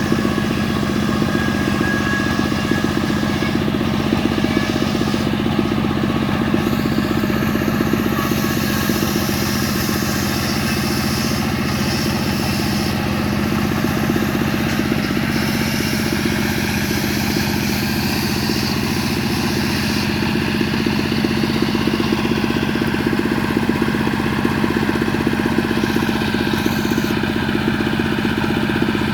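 Stihl MS385 chainsaw's two-stroke engine running steadily.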